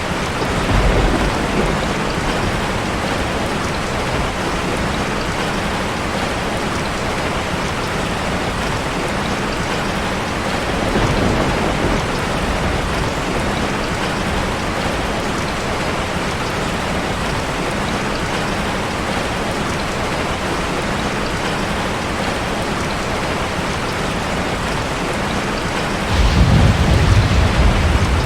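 Steady rushing of a waterfall, an even wash of falling water. Low rumbles swell up three times, the longest and loudest near the end.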